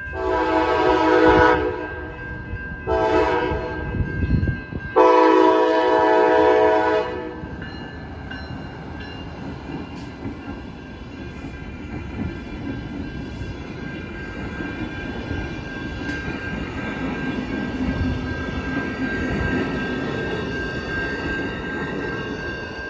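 Amtrak locomotive horn sounding three blasts, the last the longest, then the train rolling slowly over the crossing with wheels clacking on the rail joints. A steady ringing crossing bell is heard underneath.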